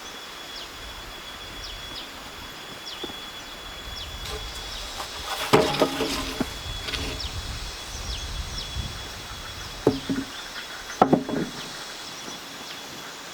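A few sharp wooden knocks, the loudest about five seconds in and two more near the end, over a steady high-pitched tone and short chirps in the background.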